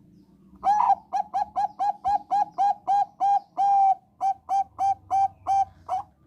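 Thai-bred zebra dove (perkutut bangkok) singing its cooing song: a longer opening note, then a fast run of short, clear coos at about four a second, with one drawn-out note in the middle and a brief break before the last few.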